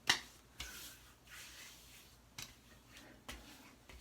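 Hands rubbing post-shave balm over a freshly shaved scalp and face: soft rubbing and squishing with a few sharp taps, the loudest right at the start.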